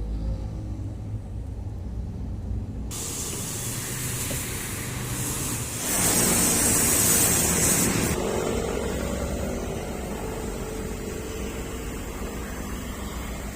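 A car-wash sprayer hissing against a car. It starts suddenly about three seconds in, is loudest for a couple of seconds midway, then settles to a steadier, softer hiss over a low rumble.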